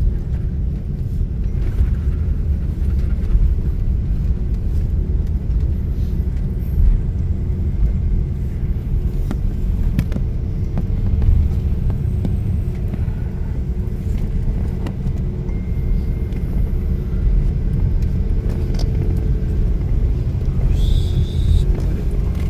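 Airliner cabin noise: a steady low rumble with a faint engine hum underneath, as the plane rolls on the ground after landing.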